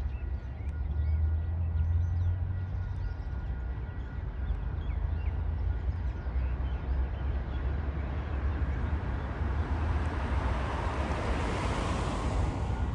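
Diesel-electric shunting locomotive (KiwiRail DSG class) running with a steady low engine rumble. A broad rushing noise builds over the second half and fades just before the end.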